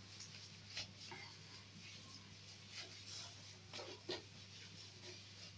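Faint light rubbing and a few small ticks of kitchen handling over a low steady hum.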